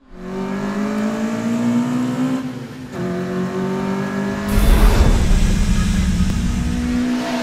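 Car engine sound effect revving with slowly rising pitch, easing off briefly about two and a half seconds in and then revving again, followed about halfway through by a loud rushing whoosh with a deep rumble.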